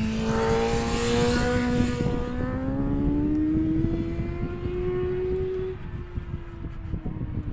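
Race motorcycle passing and accelerating away. Its engine note climbs for a few seconds, then fades into the distance, with wind buffeting the microphone.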